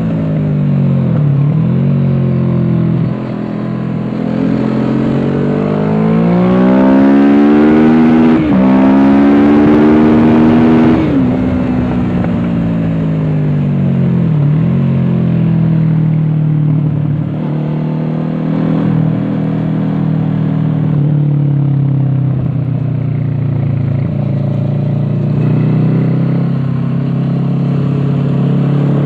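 Kawasaki Z650 parallel-twin engine through an aftermarket Dominator exhaust, heard from on board while riding on a race track. It revs up through the gears with sharp drops in pitch at the upshifts about a third of the way in, then runs at a steadier pitch with brief dips off the throttle, and rises again near the end.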